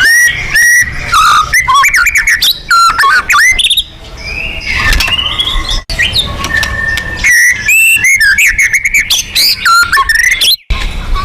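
White-rumped shama (murai batu) singing loudly: a fast, varied stream of rising and falling whistles, chirps and trills, broken by short gaps about six seconds and ten and a half seconds in. It is the agitated 'pancingan' song used to provoke caged shamas into singing.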